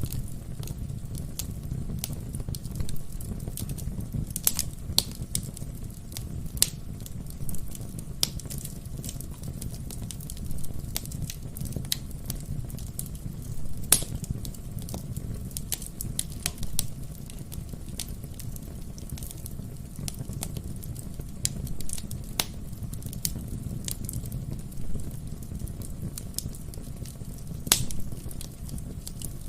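Wood fire burning in a fireplace: a steady low rumble of flames with frequent irregular sharp crackles and pops from the burning logs, a few louder pops standing out.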